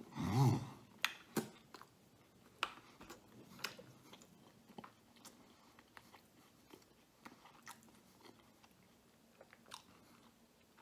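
A man chewing a mouthful of cheese-stuffed garlic knot, with scattered wet mouth clicks and smacks that thin out toward the end. A short hummed 'mm' comes right at the start.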